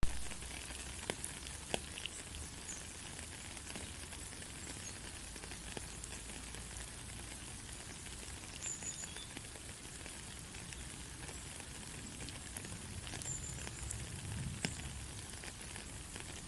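Steady rain falling: a dense, even patter with scattered sharper drop ticks. It starts abruptly.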